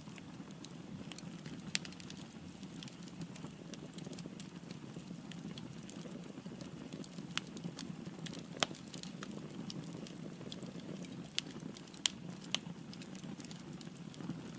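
Wood fire burning in a fireplace: a steady low roar of flames with scattered sharp crackles and pops, a few of them louder, about 2, 8 and 12 seconds in.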